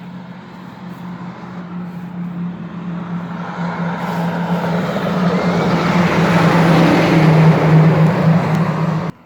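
Diesel Peterbilt truck approaching along the road. Its steady engine drone and rushing tyre noise grow louder as it nears, then cut off suddenly near the end.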